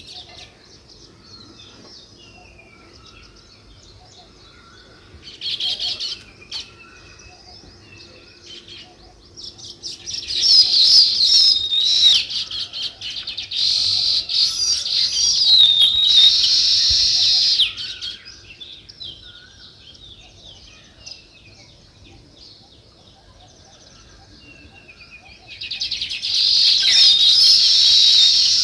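Small songbirds chirping: a short burst of calls, then two long spells of dense, high chattering from several birds at once, with faint scattered chirps in between.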